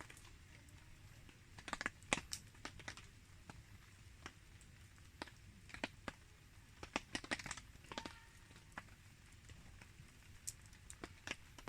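Wood campfire crackling faintly, with irregular sharp pops and clicks, clustered around two seconds in and again around seven to eight seconds in.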